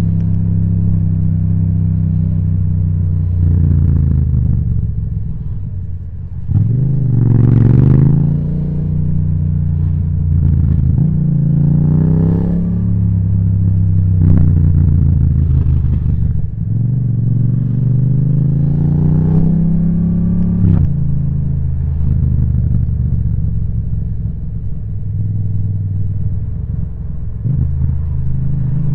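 Yamaha MT-07's parallel-twin engine through an Akrapovic titanium exhaust, pulling under way with the revs climbing and then dropping back several times as it shifts through the gears.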